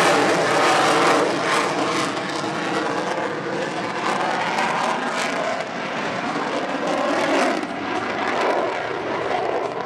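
Engine noise of an airplane flying past, loudest at the start and slowly fading.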